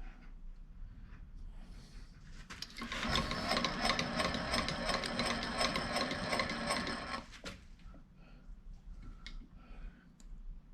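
Machine-tool motor in a machine shop runs for about four and a half seconds. It starts about three seconds in, holds a steady pitched hum with rapid fine ticking, then stops abruptly. Faint handling clicks come before and after it.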